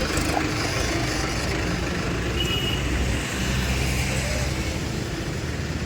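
Tractor engine running steadily at idle, a continuous low hum with no change in speed.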